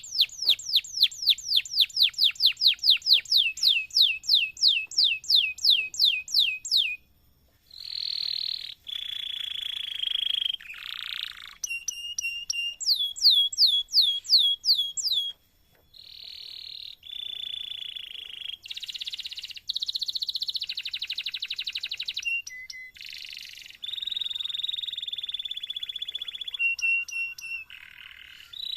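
Canary singing a long continuous song. It opens with a fast run of descending whistled sweeps, about five a second. After a brief pause it moves into varied phrases of rapid rolling trills and buzzy notes, with a second run of sweeps in the middle.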